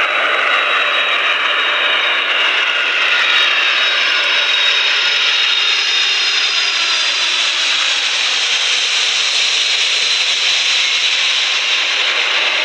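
Boeing 747's four turbofan jet engines running loud and steady as the airliner flies past on landing, with whining tones that slowly fall in pitch.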